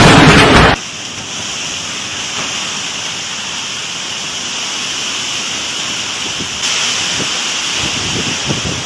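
A very loud crash that cuts off abruptly under a second in, then the steady hiss of heavy rain pouring down during a storm, a little louder from about two-thirds of the way through.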